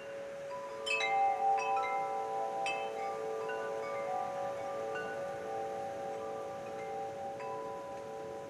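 Wind chimes struck several times in quick succession about a second in, their clear notes ringing on and overlapping, with another single strike near the end.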